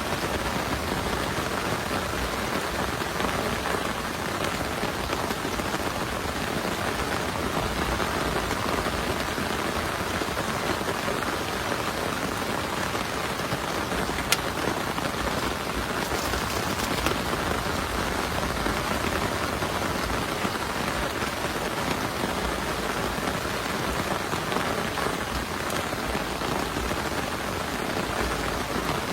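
Steady rain falling, with one sharp tick about halfway through.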